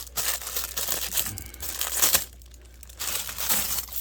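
Crinkling and rustling of heat-wrap kit packaging being handled, in two spells with a short pause a little past two seconds in.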